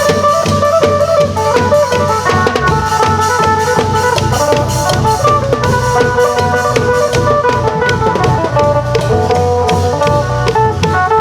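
Isan klong yao long-drum ensemble playing a steady, driving rhythm under a phin (Isan plucked lute) playing a quick running melody.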